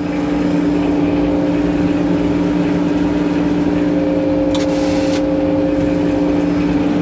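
An engine running steadily at constant speed with a low, even hum. A short hiss about four and a half seconds in.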